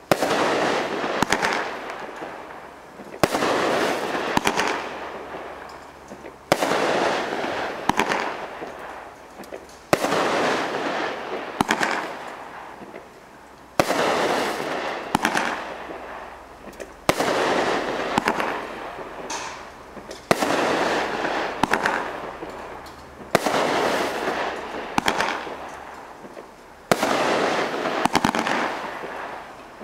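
A 500-gram, 16-shot consumer fireworks cake firing shot after shot, about one every three seconds. Each shot opens with a sharp bang, followed by a wash of crackling that fades before the next shot.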